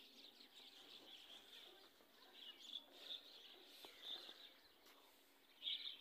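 Near quiet, with a few faint, short bird chirps scattered through it and a louder burst of chirping near the end.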